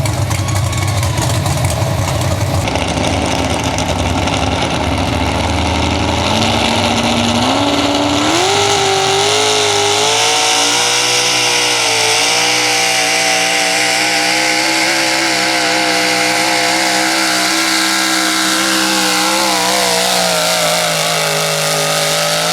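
Big-block V8 engine of a pulling truck at high revs under load while pulling a sled. The revs climb in steps about six to nine seconds in, then hold high with a wavering pitch and ease off near the end.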